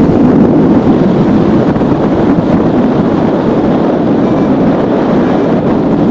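Strong wind buffeting the microphone in flight: a loud, steady rushing noise.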